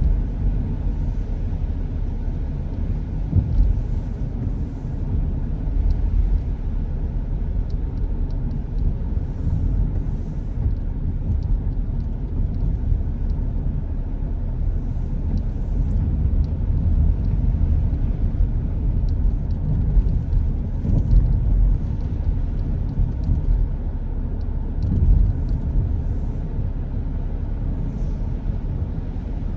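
A car driving on a rainy road: a steady low rumble of road and engine noise, with faint scattered ticks.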